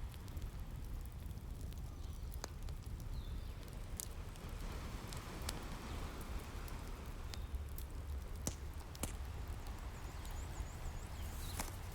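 Wood fire crackling with scattered sharp pops over the steady wash of ocean waves, the surf swelling about halfway through.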